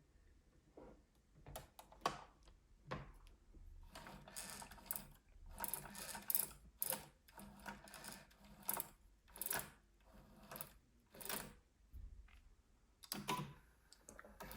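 Fairly faint mechanism of a Bernina 1230 sewing machine clicking and clattering in irregular strokes, about one to two a second, with a louder burst near the end.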